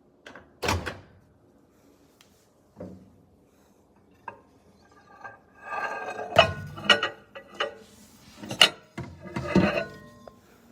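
Irregular knocks, clicks and clatter of dishes being handled, sparse at first and busier from about five and a half seconds in.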